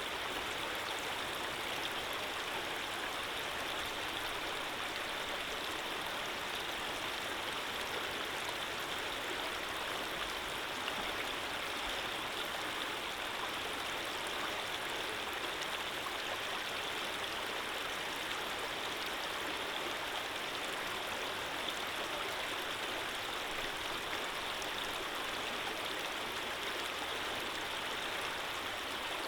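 Running water flowing steadily, an even, unbroken rush with no other sounds.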